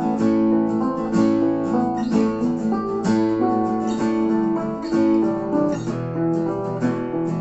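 Acoustic guitars strumming and picking chords, with no singing.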